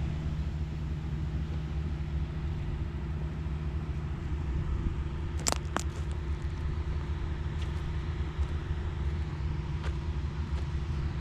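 A farm machine's engine running steadily, with two sharp clicks about five and a half seconds in.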